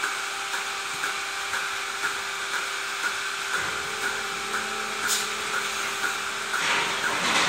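Steady machine hum with soft regular pulses about twice a second; a lower hum joins about three and a half seconds in.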